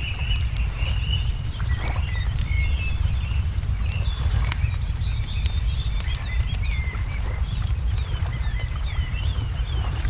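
Wood fire crackling with scattered sharp pops, while songbirds chirp throughout and give a run of quick falling notes near the end. A steady low rumble lies underneath.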